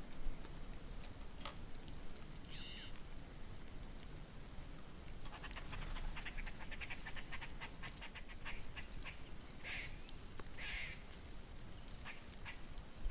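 A few short bird calls spaced seconds apart, with a run of faint clicks in between.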